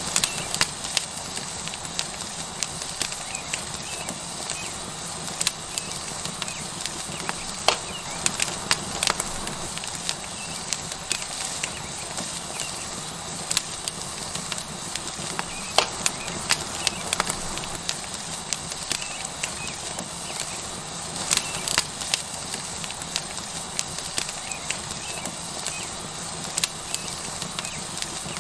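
Wood fire crackling with irregular sharp pops over a steady sizzling hiss, as a tomahawk steak cooks on a hot rock.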